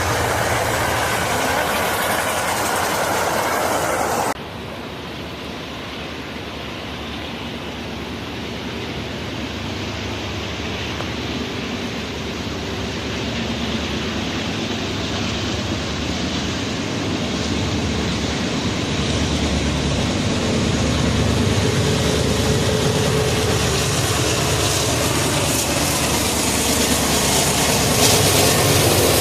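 Norfolk Southern freight train: a passing train that cuts off abruptly about four seconds in, then the diesel locomotives of an approaching train, their engines running steadily and growing louder as they near.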